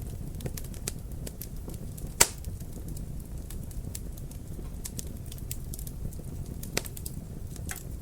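Wood fire crackling over a low steady rumble, with scattered sharp clicks and one loud pop about two seconds in and another near the end.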